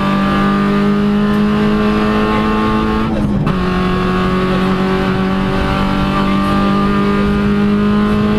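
VW Polo rally car's engine running hard at high revs, heard from inside the cabin. The engine note holds fairly steady, with a brief dip in revs about three seconds in before it picks up again.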